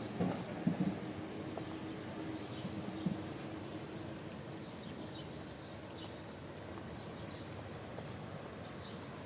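Steady outdoor background noise with a faint low hum, broken by a few short knocks in the first second and one more about three seconds in.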